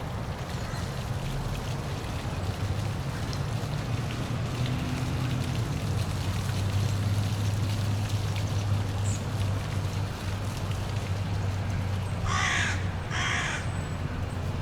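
Steady rush of a waterfall over a low hum, and near the end a crow caws twice, about a second apart.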